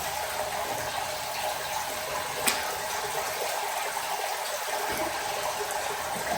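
Steady hiss of water spraying out under pressure from the Hotsy pressure washer's plumbing, with a single sharp click about two and a half seconds in.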